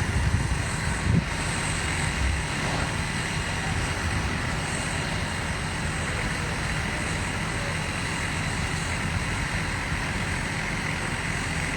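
Steady low rumble of running vehicle engines, with a constant hum, from fire trucks working at the scene; a couple of short knocks about a second in.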